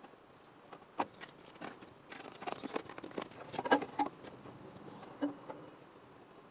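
Scattered clicks and light knocks of tools and metal being handled, busiest through the middle and loudest a little past halfway, over a steady high hiss.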